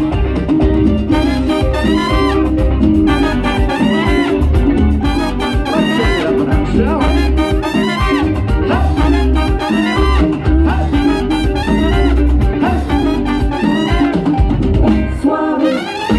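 Live band playing Latin music.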